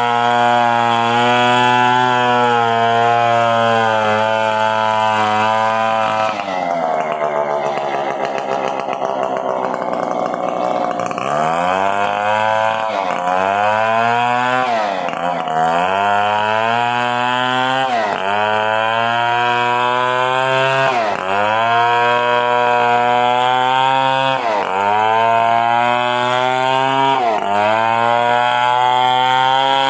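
Stihl 070 two-stroke chainsaw running at high revs, steady for about six seconds, then dropping lower for a few seconds. After that its pitch sags sharply and climbs back every two to three seconds.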